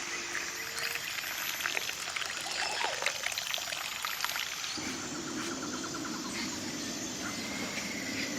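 Water trickling and pouring, with many small scattered clicks and pops; a lower steady sound joins in about five seconds in.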